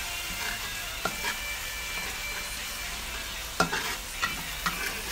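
Ground spice paste sizzling in hot oil in a wok while a metal spatula stirs it, scraping and clinking against the pan several times; the loudest clink comes about three and a half seconds in.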